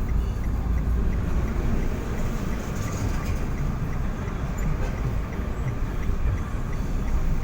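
Vehicle driving: a steady low road and engine rumble, heard from inside the vehicle, with faint, evenly spaced ticking over it.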